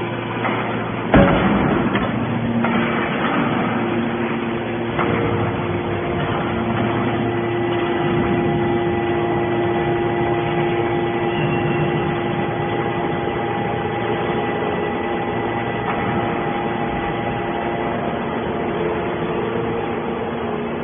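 Hydraulic scrap-metal baler running with a steady machine whine, with a loud metal clank about a second in and a smaller knock around five seconds.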